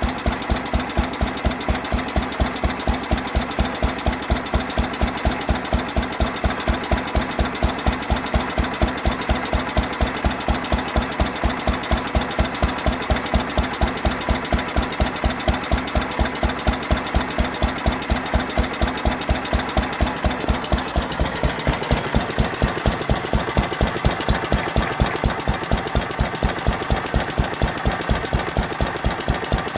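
2.5 hp IHC Mogul single-cylinder antique gas engine running with no load, giving a steady, even beat of about three strokes a second.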